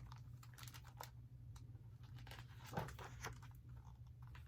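Faint rustling and scattered small clicks of handling noise, paper-like, over a low steady hum, with one slightly louder rustle near the middle.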